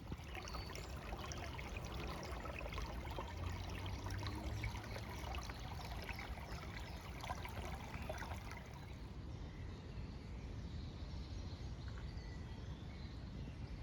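A small brook running, a steady trickling of water.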